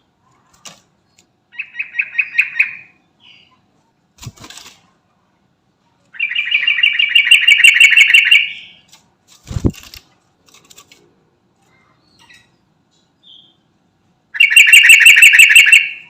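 Sooty-headed bulbul (trucukan) singing loud bursts of fast repeated notes, three times, with two short knocks in between.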